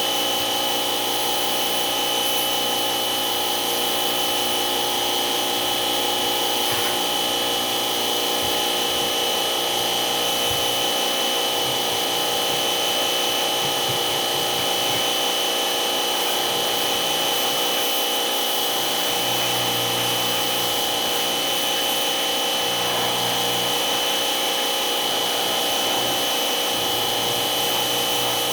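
Electric motor running steadily throughout, with a constant high whine.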